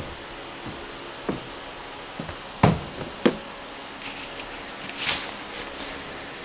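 A few separate knocks and thumps from equipment being handled during a stage setup, the loudest about two and a half seconds in, followed by a few seconds of rustling.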